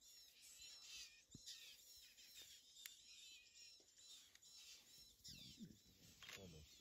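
Faint chorus of wild birds chirping in quick, repeated high notes, with a lower call near the end.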